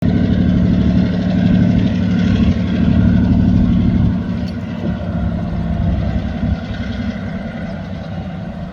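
TasRail TR-class diesel-electric locomotives working hard on a climb, a loud, low, steady diesel drone that fades gradually after about four seconds as they pull away.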